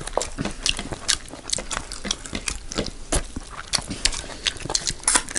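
Close-miked wet chewing and lip-smacking of people eating rice and curry by hand: a quick, irregular run of short smacks and squelches, several a second.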